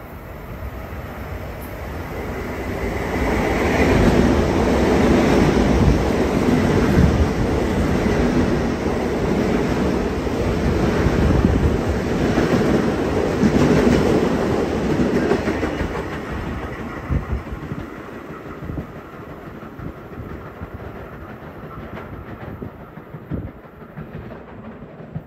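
Long Island Rail Road commuter train running through the station. The rumble and clatter of its wheels on the rails builds about two seconds in, stays loud for some ten seconds as the cars go by, then fades as it pulls away.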